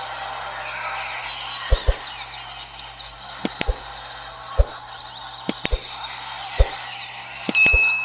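Many double-collared seedeaters (coleiros) singing at once in a dense, overlapping chorus of rapid chirps and trills, with scattered dull knocks about once a second.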